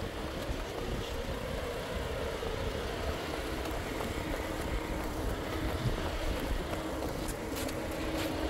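Ford compact car's engine running at low speed as it creeps along a dirt track, with wind rumbling on the microphone.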